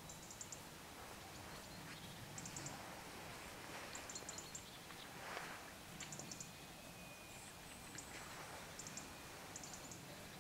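Quiet outdoor background with small birds calling: clusters of three or four very high, short ticks every second or two, over a steady low rumble.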